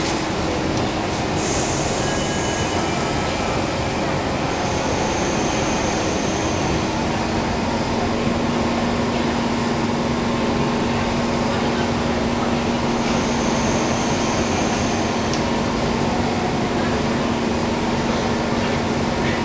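Steady hum inside a Kawasaki C151 MRT train car standing at a platform with its doors open, from the train's air conditioning and onboard equipment. A low steady tone joins about seven seconds in, and a faint high hiss comes twice.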